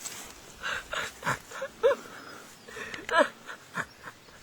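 A man imitating an animal, making a run of short wordless grunts and whines whose pitch bends, the loudest about two and three seconds in.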